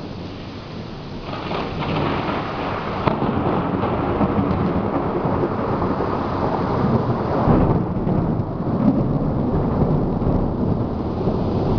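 Thunder rumbling through a heavy thunderstorm over steady rain, with a sharp crack about three seconds in and another swell of rumbling past the middle.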